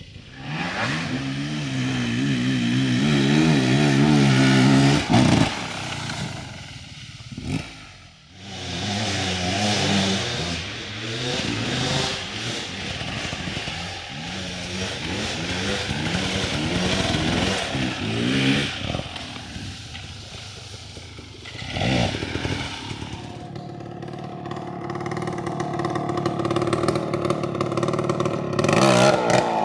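Dirt bike engine revving hard under load on a loose hill climb, its pitch wavering up and down as the throttle is worked. It drops off briefly about a quarter of the way in and again about three quarters of the way in, then picks back up.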